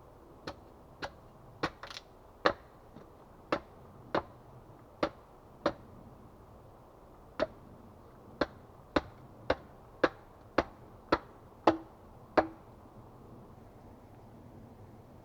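Axe chopping wood: a run of sharp single strikes, about two a second, with a short pause midway, stopping a few seconds before the end.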